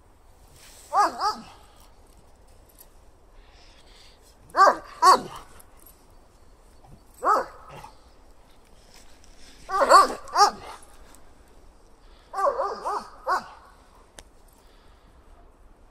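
German Shepherd dog barking in short bursts, one or two barks at a time every two to three seconds, with a quick run of about four barks near the end.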